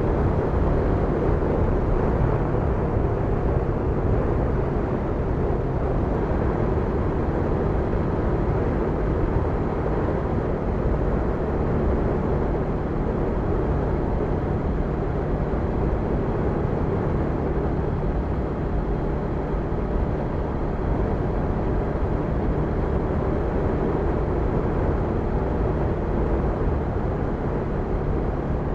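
Honda NX500 motorcycle's parallel-twin engine running at a steady speed on the move, its pitch holding nearly constant.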